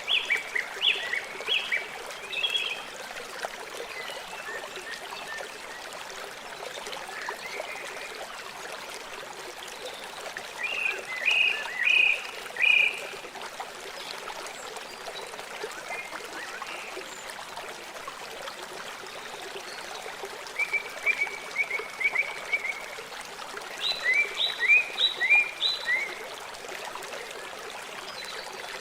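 River water flowing steadily, with an animal calling in short runs of high, falling chirps, four or five runs spread across the stretch.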